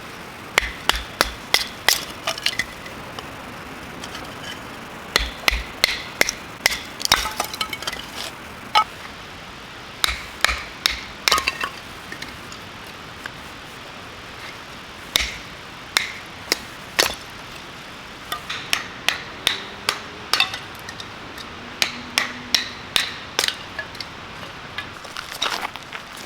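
Repeated sharp knocks like hammer blows, coming in bursts of several strikes about two or three a second, with pauses between the bursts.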